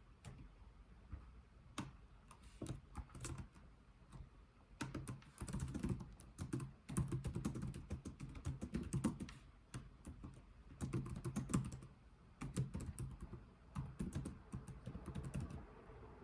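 Typing on a computer keyboard: a few separate key clicks at first, then runs of keystrokes in bursts with short pauses between them.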